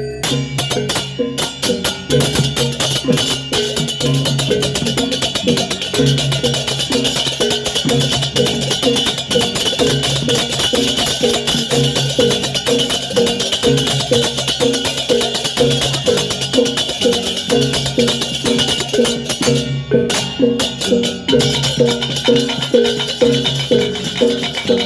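Balinese gamelan music: a fast, repeating pattern of tuned bronze percussion over a steady shimmer of small clashing cymbals. The cymbals thin out briefly near the end.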